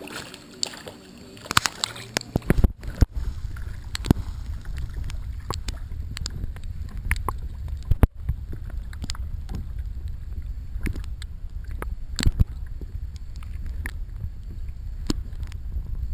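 Small boat out on the water: a steady low rumble sets in about two and a half seconds in, with frequent knocks and thumps.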